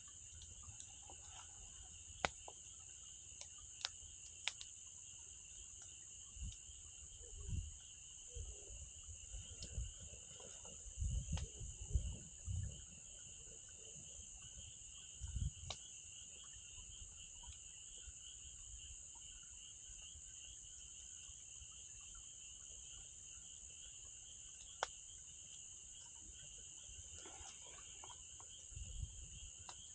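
A steady chorus of insects trilling, with a few sharp pops from a burning wood fire and some low thumps and rumbles, mostly in the middle and again near the end.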